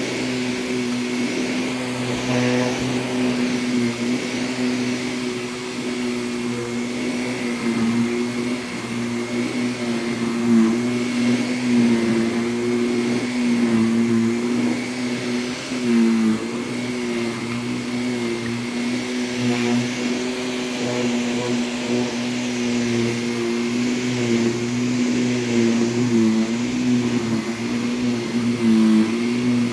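Vacuum cleaner running steadily over a rug, its motor giving a constant hum with a higher whine above it. The motor's pitch dips briefly a few times, about halfway through, again a little later and near the end.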